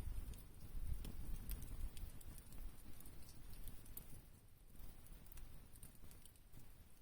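Wood campfire crackling, with scattered sharp pops, over a low rumble that fades over the first few seconds.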